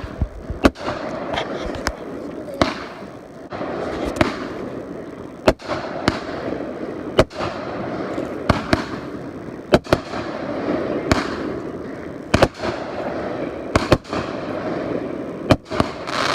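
Fireworks display: a run of sharp bangs from bursting fireworks, roughly one every second or so, over a steady background noise.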